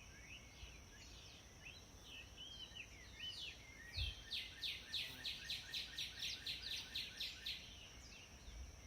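Birds chirping faintly. About halfway through, one bird sings a fast trill of repeated down-slurred notes, about six a second, for roughly three seconds, over a thin steady high tone.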